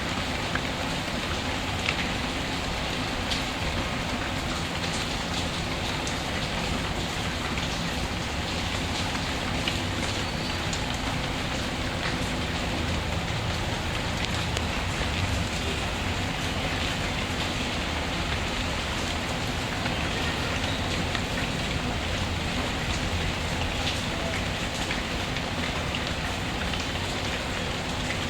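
Steady rain falling, with a low rumble and scattered sharp ticks and pops from a crackling wood fire mixed in.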